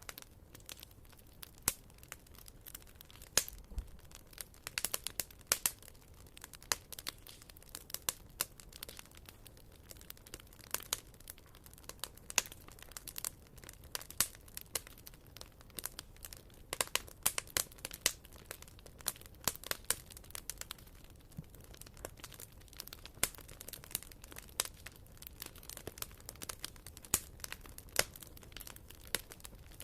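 Firewood burning in a fireplace, crackling with irregular sharp pops and snaps over a faint steady hiss.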